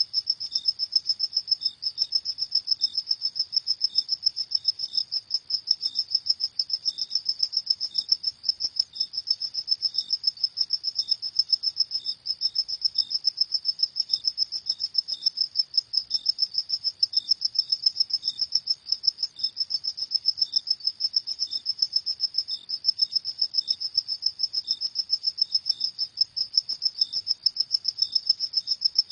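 Crickets chirping nonstop at night: a high, rapid pulsing trill, with a second, slightly lower chirp repeating about twice a second.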